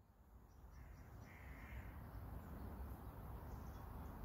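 Faint outdoor ambience fading in: a bird gives a couple of drawn-out calls over a low rumble.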